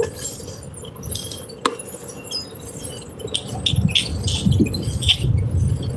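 Light metallic jingling and clinking, with scattered sharp clicks and uneven low rumbling.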